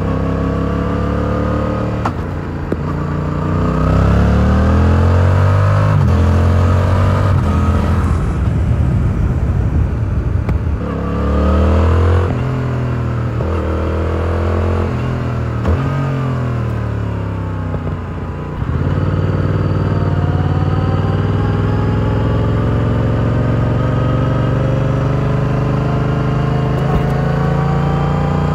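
Yamaha R7's 689 cc parallel-twin engine through its stock exhaust while riding. The revs climb in several pulls through the gears, breaking briefly at each shift, then fall away for a few seconds around the middle. In the last third the engine runs steady, slowly gaining revs.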